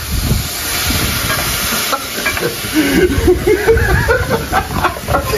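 Food sizzling in a pot of browned sugar for a brown stew, stirred with a spoon.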